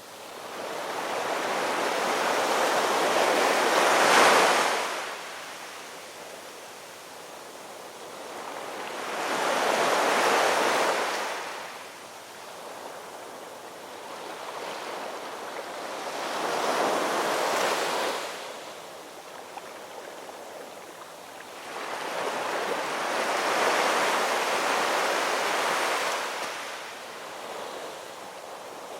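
Ocean waves washing ashore: four waves in turn, each swelling up and falling away over a few seconds, with the first the loudest.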